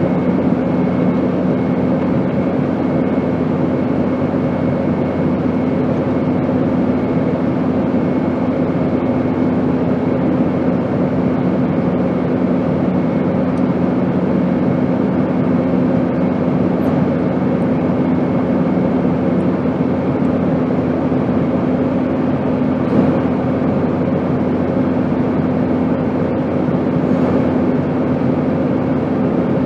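Airplane noise: a steady, unchanging drone of rushing noise with a constant low hum running under it.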